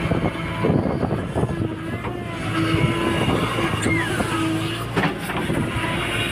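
Diesel engines of a JCB backhoe loader and tractor running steadily, with scattered knocks and clanks. There is a short falling whine about four seconds in.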